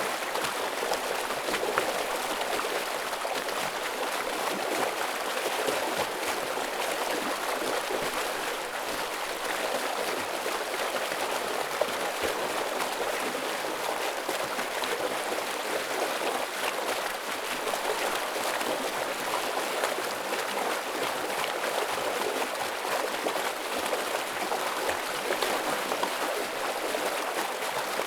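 A fast-flowing stream rushing and splashing steadily over rocks, a constant full water sound.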